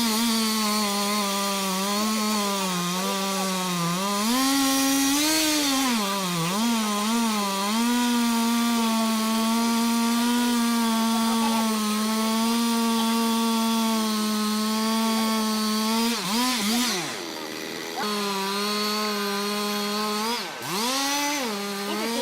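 Two-stroke chainsaw running at high revs while cutting through wood, its pitch sagging and recovering as the chain bites. About 17 seconds in the revs drop off and climb back, and near the end there is another quick dip and rev-up.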